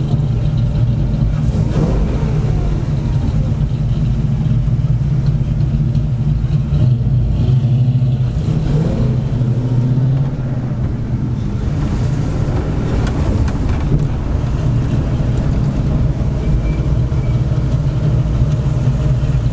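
Muscle car's engine running with a steady low drone, dipping slightly about halfway through.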